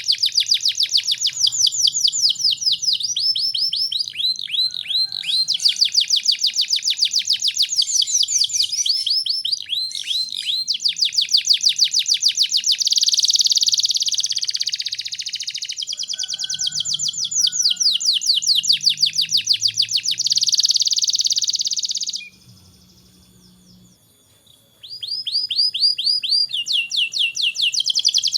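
Domestic canary singing a long song of fast trills and rolling phrases, breaking off for about two seconds near the end before starting again.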